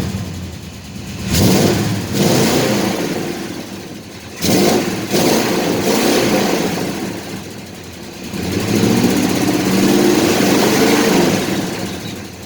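Chevrolet C10 pickup's V8 exhaust, freshly welded, revving up and down in three swells. The drone is gone and it sounds much smoother.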